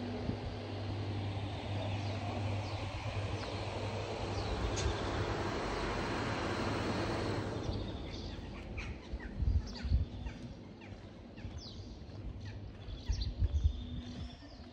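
A steady mechanical hum with a rushing noise fades out about halfway, then birds chirp repeatedly; a few low thumps stand out in the second half.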